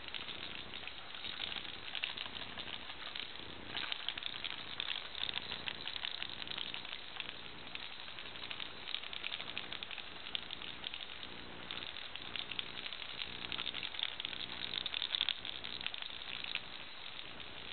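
Continuous crackling and rustling, with a baby's faint low closed-mouth hums coming and going.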